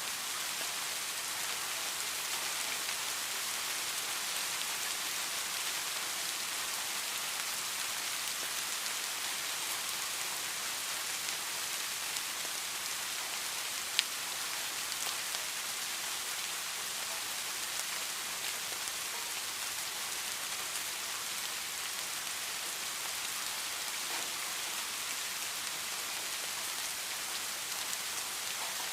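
Steady heavy rain falling, an even hiss with scattered drop ticks and one sharp drip click about halfway through.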